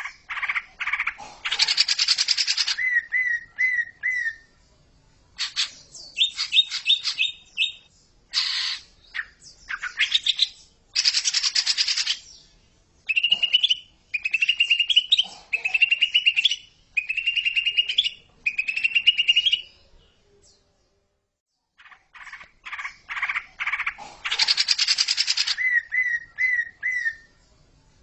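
Cucak ijo (green leafbird) song on a masteran recording. Bursts of varied chattering and trilled phrases alternate with short pauses, with a run of rising whistled notes in the middle and a pause of about two seconds near the end.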